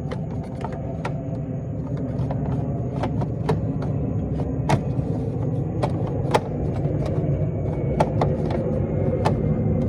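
Steady low rumble, with many sharp clicks and knocks scattered through it as parts are handled and fitted.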